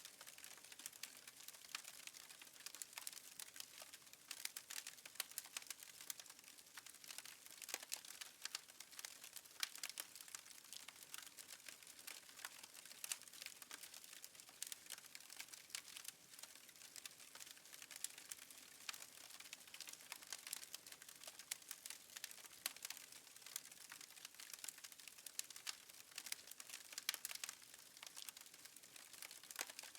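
Fireplace wood fire crackling faintly: a steady run of small, irregular pops and snaps over a soft hiss.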